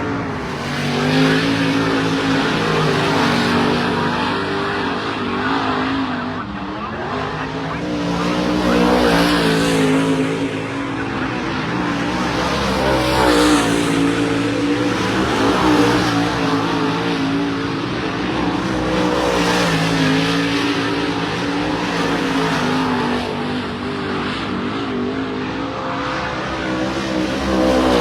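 Dirt modified race cars running on the track, several engines at once, their pitch rising and falling over and over as they rev and back off.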